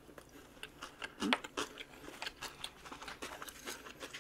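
Close-up eating sounds: quiet chewing and crunching made up of a scatter of small clicks, with one louder crunch about a second in.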